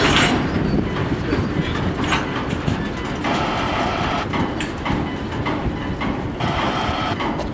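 Freight train rolling past, its steel wheels clicking over rail joints above a steady rumble. Twice the noise turns harsher for about a second.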